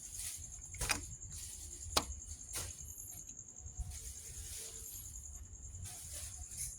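Steady high-pitched insect trilling, with a low background rumble. There are three sharp clicks, about one, two and two and a half seconds in.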